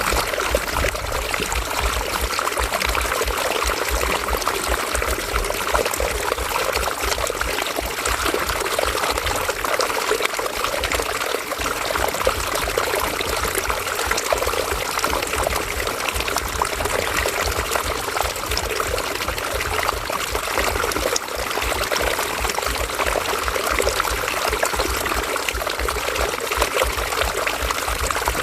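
A river flowing and splashing over rocks, a steady rushing and gurgling of water.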